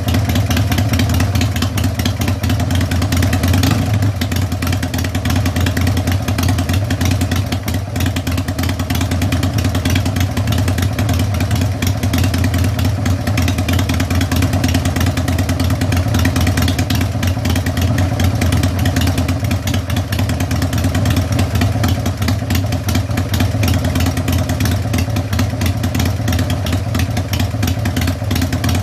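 Harley-Davidson Sportster V-twin, bored up from 883 to 1200 with Wiseco pistons, idling steadily with a low exhaust note.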